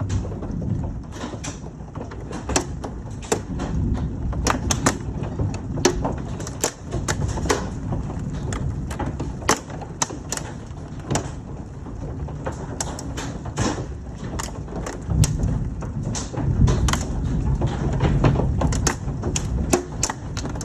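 Large hailstones striking hard surfaces as sharp, irregular cracks and clicks, several a second, over a steady low rumble.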